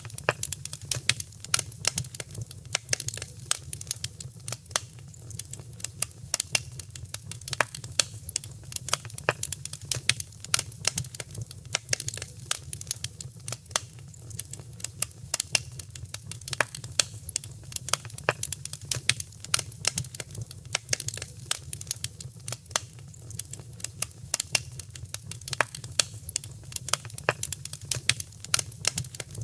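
Wood fire crackling in a fireplace: a constant run of sharp pops and snaps over a steady low rumble of burning.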